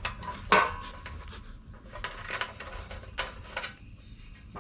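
Scattered clicks and knocks of hand tools against metal mower parts during screw work, with one sharper knock about half a second in.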